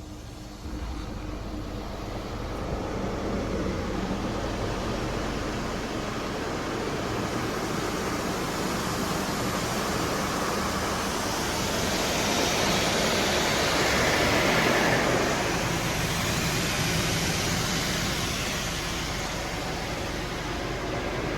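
Mark VII ChoiceWash XT automatic soft-touch car wash running its cycle: a steady rush of spray or blower noise over a low machine hum. It steps up just under a second in and swells louder about twelve to fifteen seconds in.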